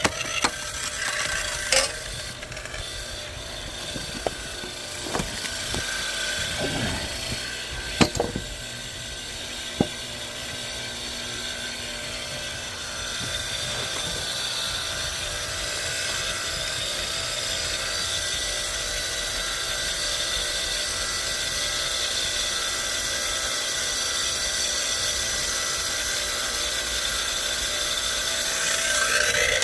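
Hydraulic log splitter working a log: a few sharp wood cracks in the first ten seconds, then a steady mechanical noise that slowly grows louder as the log is pressed.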